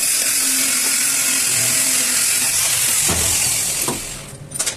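A loud, steady hiss that dies away about four seconds in, followed by a couple of sharp knocks near the end.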